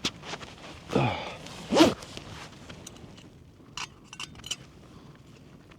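Rustling and handling of gear at close range, with two short loud sounds about one and two seconds in, followed by a few faint sharp clicks.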